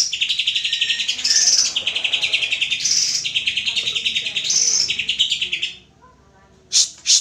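Greater green leafbird (cucak ijo) singing a fast chattering song of rapidly repeated notes with higher whistled flourishes, breaking off about six seconds in and starting again near the end.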